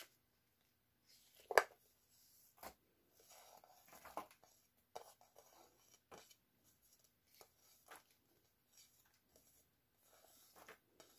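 Faint kitchen handling sounds: scattered light knocks, taps and rustles of bowls, utensils and ingredients being handled during food preparation, with one sharper knock about one and a half seconds in.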